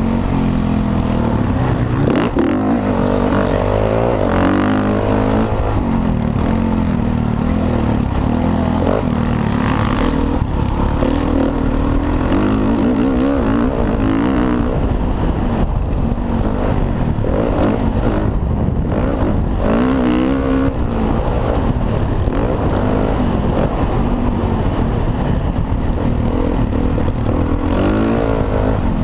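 Motocross dirt bike engine racing, revving up and down again and again as the throttle is worked and the gears change.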